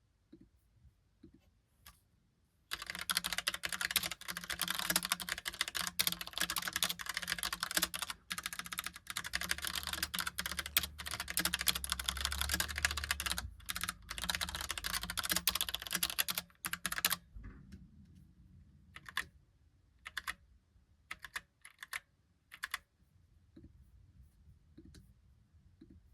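Typing on a Logitech Pop Keys mechanical keyboard with round typewriter-style keycaps. A few stray clicks come first, then a fast, continuous run of keystrokes for about fourteen seconds, and then slower, scattered key presses near the end.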